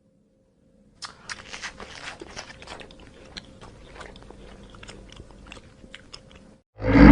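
An animal chewing, with irregular crunches over several seconds after a brief silence. Just before the end a loud animal roar breaks in.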